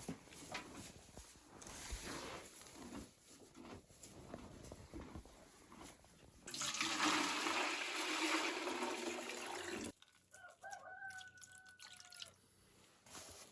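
Scattered faint knocks, then a steady rush of pouring water for about three and a half seconds. Right after it stops, a single short, level call from a chicken.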